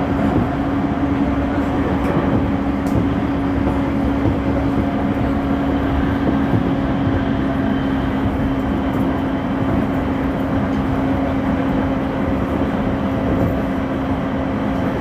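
Refurbished JR East E231 series electric train running at a steady pace: a continuous rumble of wheels on rail with a constant low hum.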